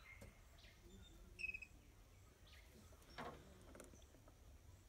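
Near silence: room tone with a faint low hum, one short high chirp about a second and a half in, and a few faint clicks around three seconds in.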